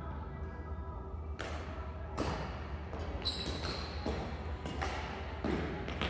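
Badminton rally: rackets hitting a shuttlecock back and forth, a sharp knock about every 0.7 s, with a brief high squeak near the middle.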